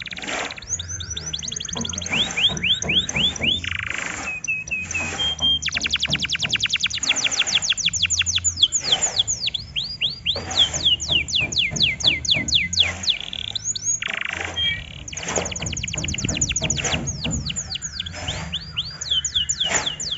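Domestic canary singing: fast rolling trills of repeated falling notes, phrase after phrase with short breaks, over a low steady hum.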